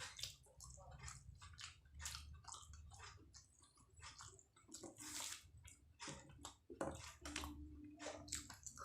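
Wet chewing and biting of martabak telur, the egg-filled fried pastry: a run of short, irregular wet clicks and squishes.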